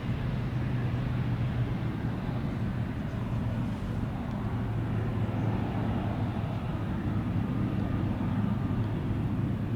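Steady, distant jet-engine rumble of a Boeing 777-200LR with General Electric GE90 engines, rolling out on the runway just after landing and reverse thrust.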